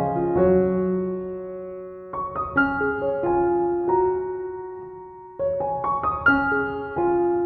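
Slow, gentle background piano music: notes struck in small groups and left to fade, with a new phrase starting about two seconds in and another past the middle.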